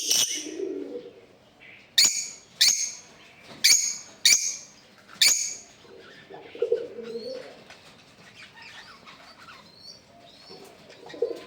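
Lovebirds calling: six sharp, shrill shrieks in the first five seconds or so, then softer chattering twitter with some low soft notes.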